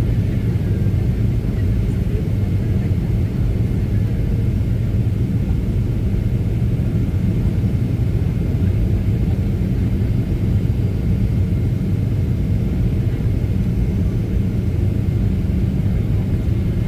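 Steady low rumble of airflow and CFM56-7B engines heard inside the cabin of a Boeing 737-700 on approach to land.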